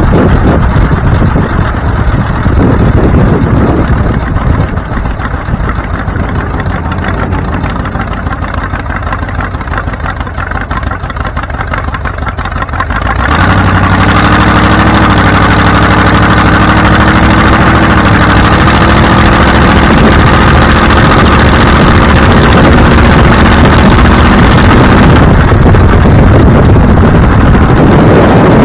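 Vehicle engine and road noise while driving. About halfway through the engine gets louder and its note rises slowly, as under acceleration.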